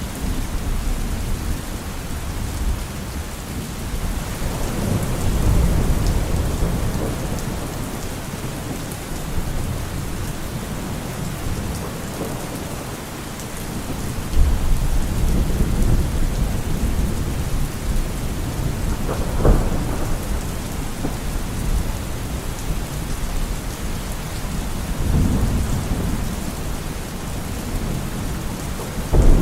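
Steady rain with low rolling rumbles of thunder that swell and fade several times.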